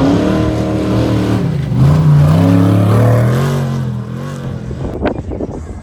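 Off-road race vehicle's engine revving up and down as it passes, loud for the first few seconds, then fading away. A sharp click near the end.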